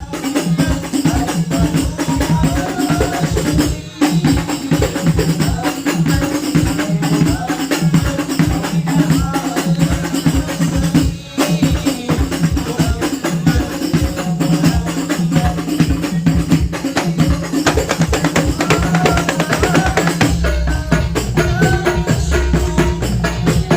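Hadrah ensemble of rebana frame drums playing a fast, dense rhythm over a steady held low note, through a sound system during a sound check. The playing breaks off briefly about four and eleven seconds in, and a deep bass comes in near the end.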